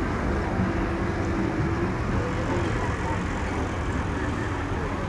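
A truck engine running steadily, holding an even loudness without revving up or down.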